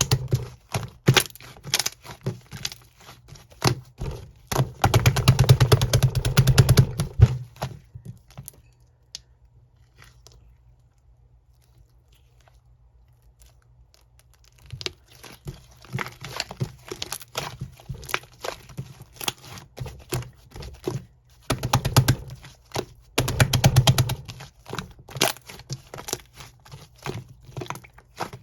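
Slime being squished and pressed by hand: a run of sticky clicks and crackling pops, coming in dense flurries, with a few seconds' pause partway through.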